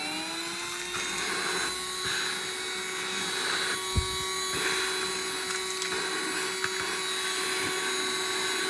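Handheld car vacuum running with a steady motor whine and airflow hiss while it sucks over a marble surface. A single sharp knock comes about four seconds in.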